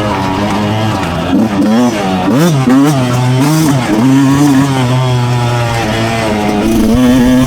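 Two-stroke motocross bike engine running hard, its pitch dipping and rising several times about two to four seconds in as the throttle is rolled off and opened again, then holding steady.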